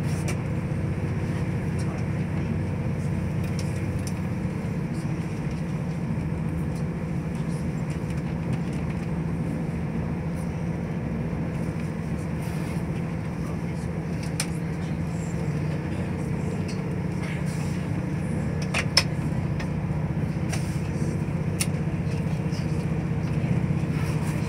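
Steady running noise inside a diesel passenger train carriage: a continuous low engine hum and track rumble, with faint scattered ticks and one sharp click about nineteen seconds in.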